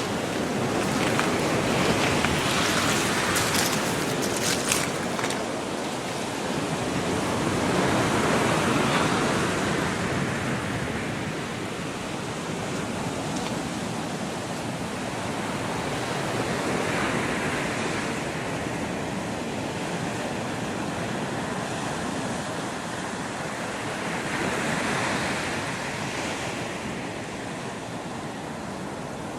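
Gulf of Mexico surf: small waves breaking and washing up the sand, the rush swelling and fading every several seconds.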